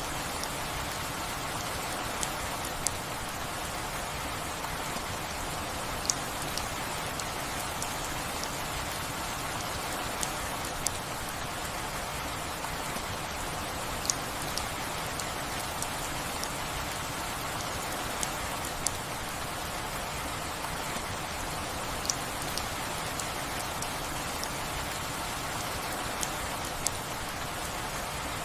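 Steady rainfall hissing, with single heavier drops striking sharply every second or two.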